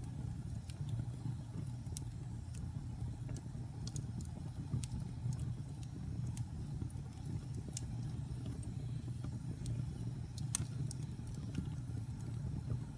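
Wood fire burning in a fireplace: a steady low rumble of flames with irregular sharp crackles and pops, the loudest about ten and a half seconds in.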